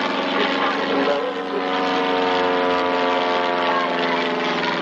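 Propeller-driven piston engine of a First World War replica triplane flying its display, a steady drone.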